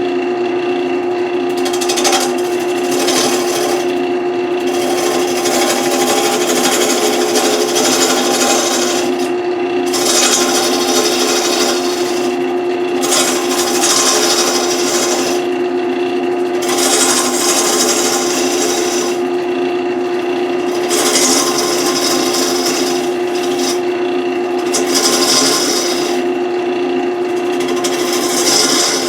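Wood lathe motor running with a steady hum while a turning tool cuts the spinning wood, a scraping hiss that breaks off for a moment every few seconds as the tool is lifted and set back on.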